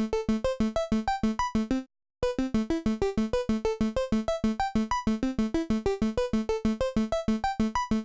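Synthesizer arpeggio from the Output Substance instrument: a fast run of short, plucky notes, about seven a second, with a repeated low note alternating with changing higher notes. It stops briefly about two seconds in, then the pattern starts again.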